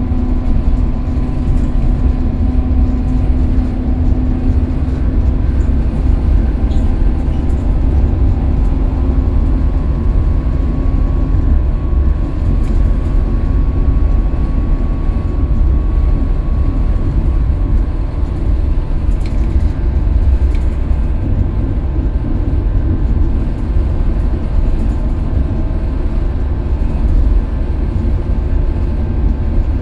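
Scania K320UB city bus running steadily under way, with a deep continuous rumble and a droning tone that fades out about twelve seconds in.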